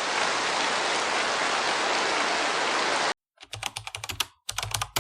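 A steady rushing hiss, like static or heavy rain, cuts off suddenly about three seconds in. After a short gap it is followed by rapid clicking like keyboard typing.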